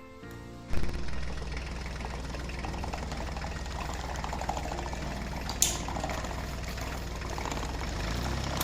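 Toy tractor's small motor running steadily with a low hum and clatter, starting suddenly about a second in. A sharp knock comes about halfway through and a louder one near the end.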